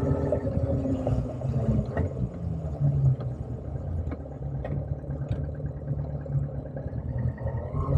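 Motorcycle engine running at low revs during a ride: a steady low rumble with a few light knocks, its pitch starting to rise near the end as it revs up.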